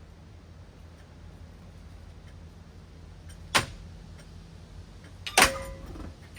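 Hunter Coastal Breeze Plus ceiling fan motor humming steadily while it runs. Two sharp metallic clanks cut in, one a little past halfway and a louder one near the end that rings briefly, from the battered fan being struck.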